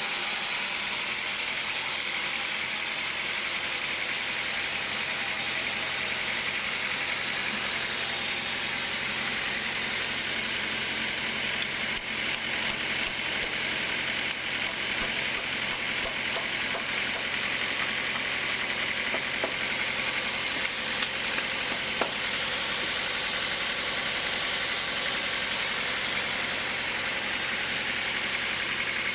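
Machinery running steadily with an even, hiss-like noise, and a few light clicks about two-thirds of the way through.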